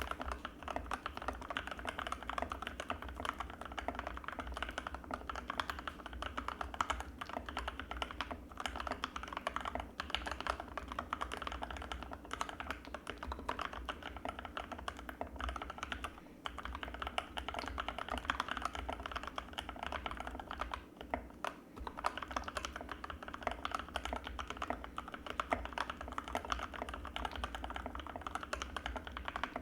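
Fast, continuous typing on an Anne Pro 2 mechanical keyboard with linear Gateron Red switches: a dense run of keystroke clacks with only brief pauses.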